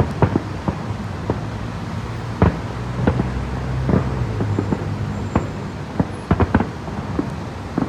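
Distant fireworks going off in quick, irregular bangs, several louder ones among them, over a low steady rumble that swells around the middle.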